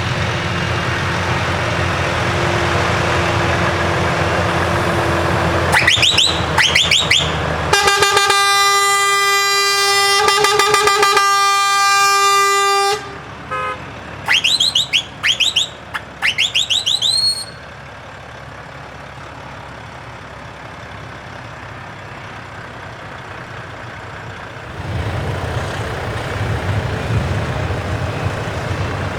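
Truck horns at a truck show. Several quick rising whistle-like horn sweeps come about six seconds in and again around the middle. Between them a loud, pulsing air-horn blast is held for about five seconds. Truck engines run before and after the horns.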